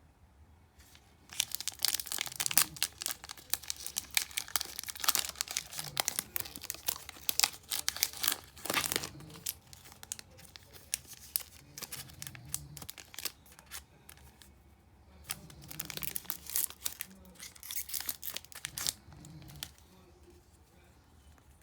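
Foil booster-pack wrapper being torn open and crinkled in the hands: a dense run of crackling from about a second in to about nine seconds, then a second burst of crinkling later on.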